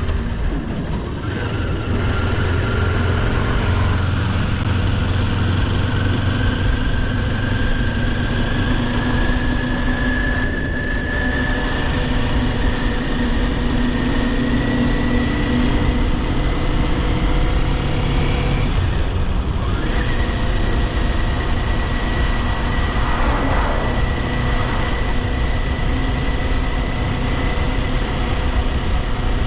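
Kawasaki Ninja 400's parallel-twin engine running on the move. Its pitch rises slowly for most of the time, breaks off briefly about two-thirds of the way through, then holds steady.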